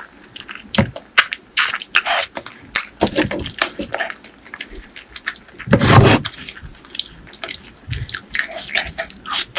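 Close-miked eating sounds: wet chewing, lip smacks and sticky clicks of braised pork leg curry and rice being eaten, with one louder wet sound about six seconds in.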